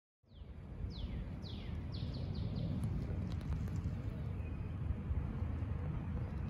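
A bird singing a series of down-slurred whistles that come faster toward the end, then stop, over a steady low rumble.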